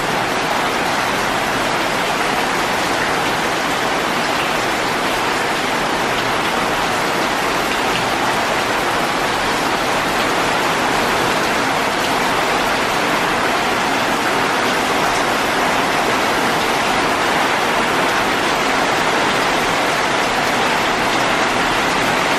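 Heavy rainstorm, rain falling steadily on leaves and trees as an even, dense hiss.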